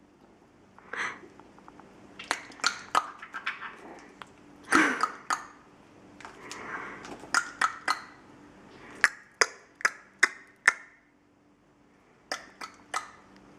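A Cape parrot's beak and mouth at work while she takes her medication: irregular sharp clicks, with a few short, soft, throaty sounds in between.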